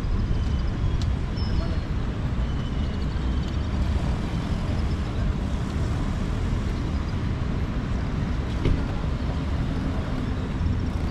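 City street ambience: a steady rumble of road traffic, with faint voices and a few brief clicks.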